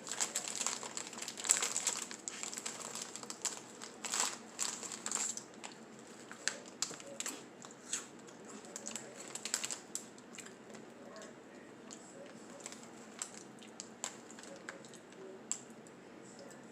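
A snack packet crinkling and pizza-flavoured crackers being crunched: a dense run of crackling for the first five seconds or so, then scattered single crunches.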